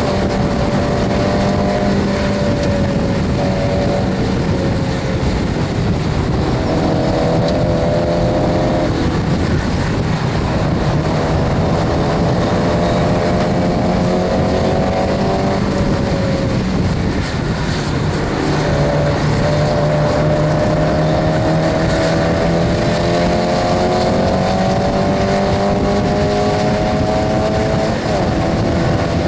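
Stock Mazda MX-5 Miata's four-cylinder engine heard from inside the cabin at racing speed: its note climbs steadily under throttle and drops back several times, at the gear changes and lifts, over loud road and wind noise.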